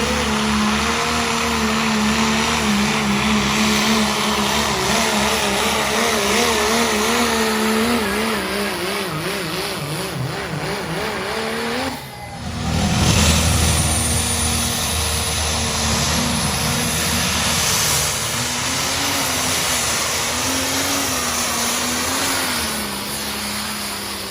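Engine of a pulling truck or tractor running hard and steady under load, its pitch wavering as it lugs. About halfway through, the sound breaks off abruptly and another engine run starts, its pitch slowly rising and falling.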